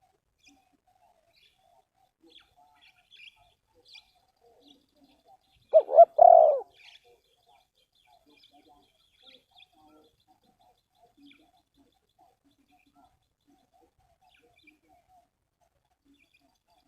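Spotted dove giving one short, loud coo about six seconds in, with faint small-bird chirps scattered throughout.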